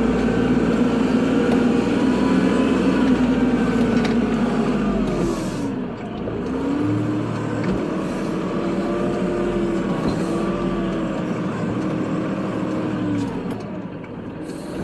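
Kubota tractor's diesel engine running while plowing snow, its pitch dropping about five seconds in, climbing back up, then falling off again near the end.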